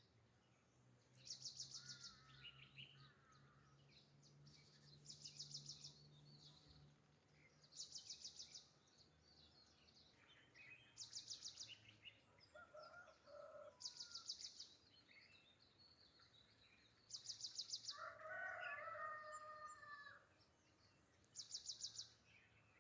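Birds calling. A high, rapid trill repeats about every three seconds among scattered chirps, and a longer, lower call of about two seconds comes near the end.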